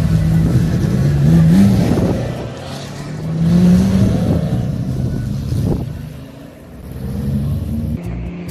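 Racing car engines passing at speed on the circuit, their pitch rising as they accelerate. There are two loud passes, about one and a half seconds and four seconds in, and the sound dies down for a moment late on.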